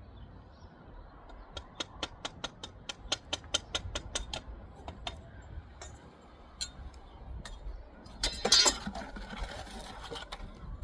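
A quick run of sharp taps, about four a second for a few seconds, then scattered taps and a short, louder scraping rush about eight seconds in.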